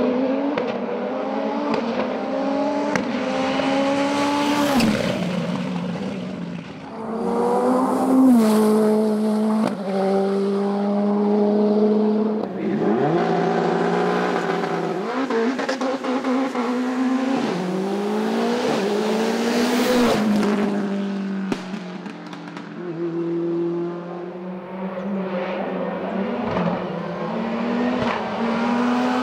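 Racing car engines at full throttle, climbing in pitch through the gears with sharp drops at each upshift, several cars one after another.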